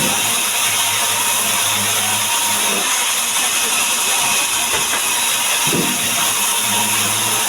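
Powered wood saw running, a steady hiss with a low hum that fades out about two seconds in and comes back near the end.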